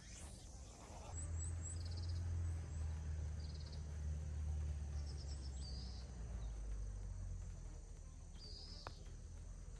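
Small birds chirping in short, repeated high trills over a low, uneven rumble, with one faint click near the end.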